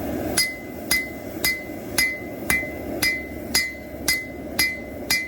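Hand hammer striking a hot steel knife blade on an anvil, about two even blows a second, ten in all, each with a short metallic ring. A steady rushing noise runs underneath.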